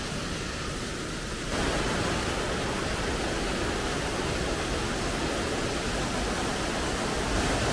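Steady rushing of water from a small waterfall stream, growing louder about a second and a half in.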